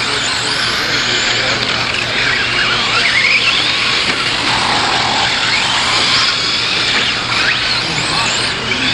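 A field of radio-controlled 4WD short course trucks racing, their motors whining up and down in pitch as they accelerate and slow, over a steady rush of noise.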